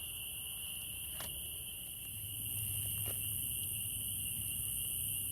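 Crickets trilling steadily in a high, continuous chorus, with two faint clicks and a low hum coming in about two seconds in.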